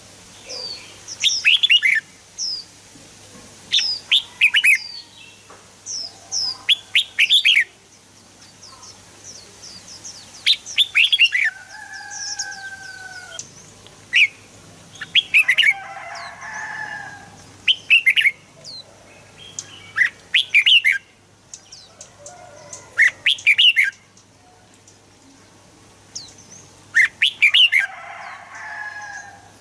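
Red-whiskered bulbul singing: short, sharp whistled phrases of quick sweeping notes that come every second or two, with a few lower gliding and chattering notes between them.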